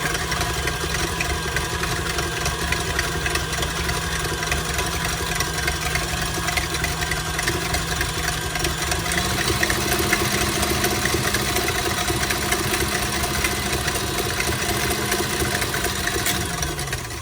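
Electric stand mixer running steadily as it beats a thin egg-and-milk French toast batter. About nine seconds in it is switched to a higher speed, and near the end it winds down and stops.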